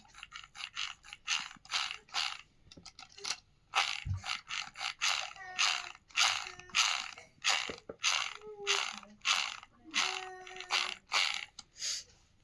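Plastic gears of a toy RC car ratcheting in short, irregular bursts, about two to three a second.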